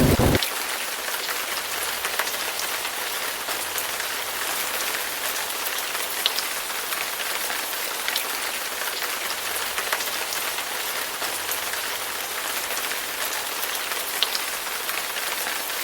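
Steady heavy rain falling, an even hiss with individual drops clicking now and then.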